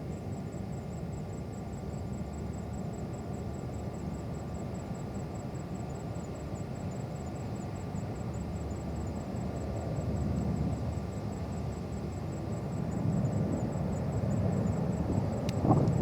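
Distant jet airliner rumble, steady at first and swelling over the last few seconds, with a sharp click near the end.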